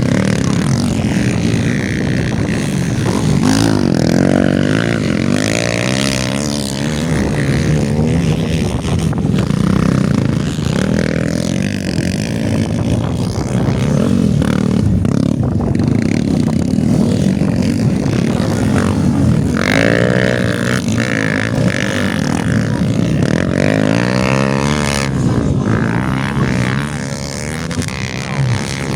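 Several motocross dirt bikes racing, their engines revving hard and easing off over and over, with pitches rising and falling as bikes pass.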